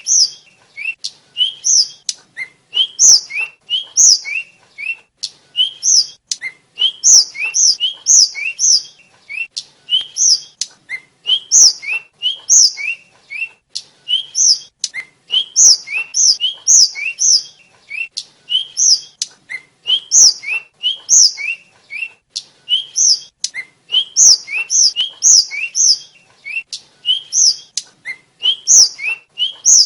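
Tledekan (sikatan, sulingan) flycatcher singing: rapid runs of short, sharp, downward-slurred whistled notes, repeated over and over with brief pauses between phrases.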